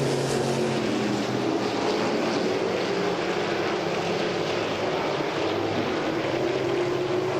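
A field of modified race cars running under green on a short oval: a steady drone of several engines, with their pitch drifting slightly up and down as the cars circulate.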